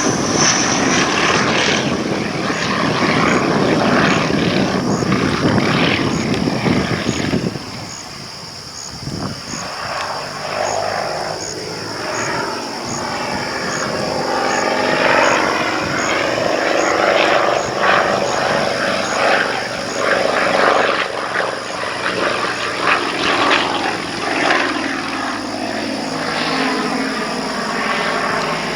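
Pitts Model 12 aerobatic biplane's engine and propeller, loud at first, dropping away briefly about eight seconds in, then rising and falling in pitch as the plane manoeuvres through its aerobatic routine.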